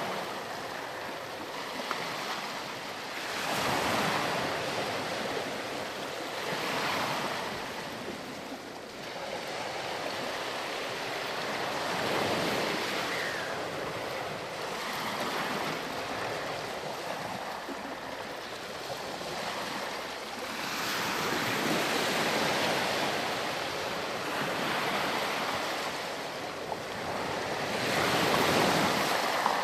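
Ocean surf washing onto a sandy beach: waves break and draw back as a rushing noise that swells and fades every few seconds.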